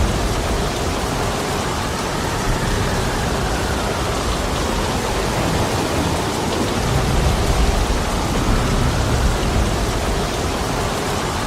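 Heavy rain pouring steadily, a dense even hiss, with a deep low rumble that swells a few times underneath.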